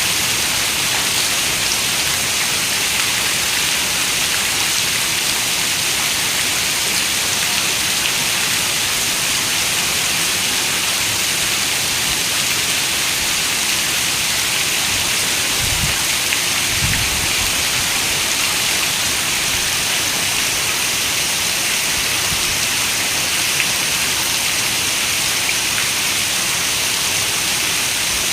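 Steady rain falling as an even hiss. Two brief low thumps come about two-thirds of the way through.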